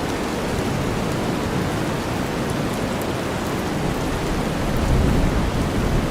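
Steady rain mixed with a deep white-noise bed, with a low rumble of thunder swelling about five seconds in.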